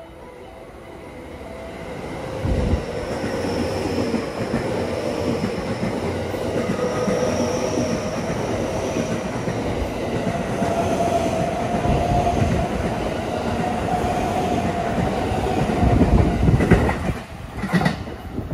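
JR West 225 series electric train passing through the station at speed: the rumble of its wheels swells about two seconds in and holds, with a steady hum and the clickety-clack of wheels over rail joints, loudest near the end as the last cars go by.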